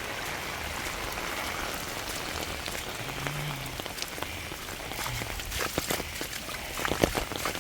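Steady rain falling and pattering on surfaces, with sharper drips tapping more often in the second half.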